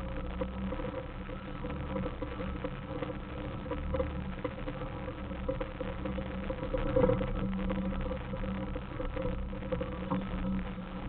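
Suzuki Samurai's four-cylinder engine running steadily at low speed while crawling over rocks, with knocks from the vehicle jolting over the trail, the loudest about seven seconds in.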